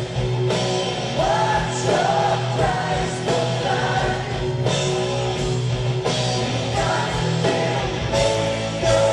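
Rock music: a singing voice over electric guitar, bass and a steady drum beat.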